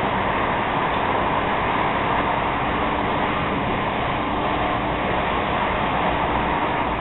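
X10 electric commuter train running along the line, heard from on board: a steady rumble and rush of wheel and rail noise. A faint steady hum comes in partway through.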